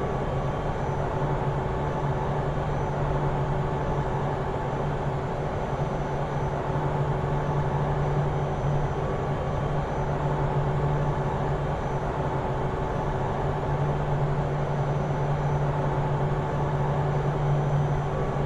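Steady cabin drone of a Pilatus aircraft in its climb: an even engine hum with a strong low tone and a few fainter higher tones over rushing air noise.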